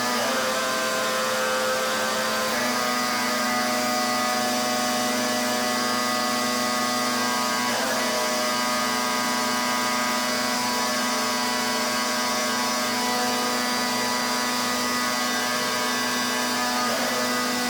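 Pressure washer running steadily with a constant hum and hiss of the spray, its pitch dipping briefly a few times.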